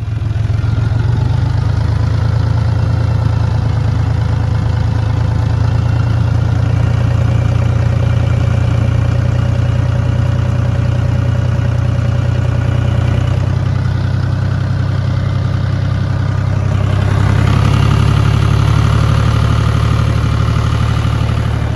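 A farm vehicle's engine running steadily while a round hay bale is unrolled for cattle, getting a little louder about seventeen seconds in.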